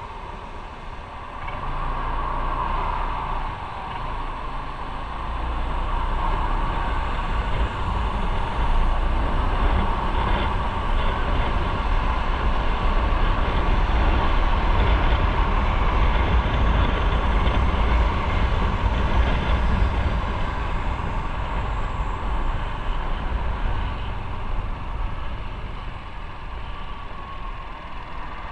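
Motorcycle engine running with wind and road noise while riding, getting louder through the middle and easing off near the end.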